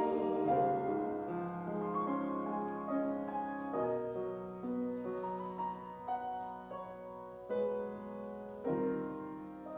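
Slow piano music, sustained chords changing every second or so and fading toward the end.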